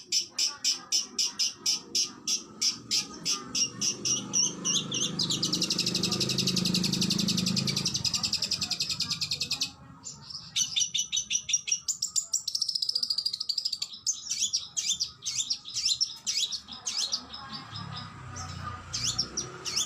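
Oriental magpie-robin (kacer) singing. It opens with a fast run of sharp repeated notes, then a dense rapid trill that stops abruptly about halfway through, followed by varied whistled and chirping phrases.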